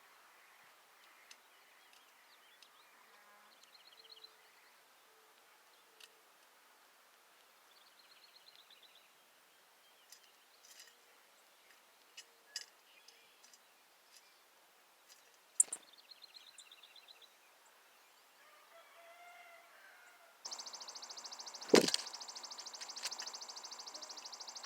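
Faint sounds of small birds at a feeder: short high chattering calls and scattered light clicks, with one sharper click midway. About 20 seconds in, a loud steady buzzing rasp starts suddenly and runs on, with a sharp click during it.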